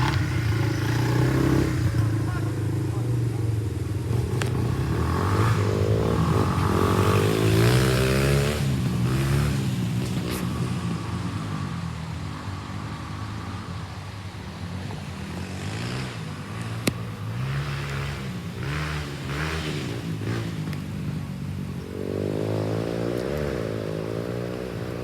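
A motor engine running, its pitch rising and falling as it revs, with a few sharp clicks.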